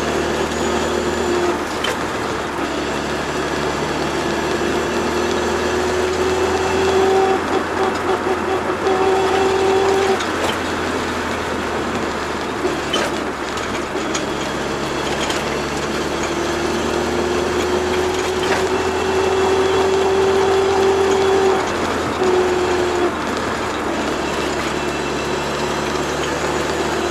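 Turbocharged Toyota AE86's engine running under way, a steady drone whose pitch climbs slowly twice and drops suddenly at the end of each climb, about ten seconds in and again near twenty-two seconds.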